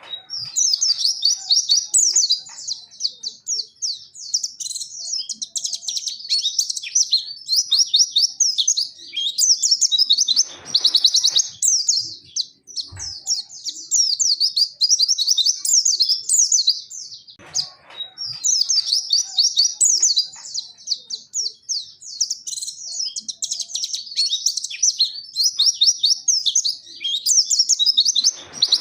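Pleci (white-eye, Zosterops) singing a long, rapid, high-pitched warbling song with only brief breaks: the vigorous 'gacor' song that bird keepers prize. A few short rustling noises break in now and then.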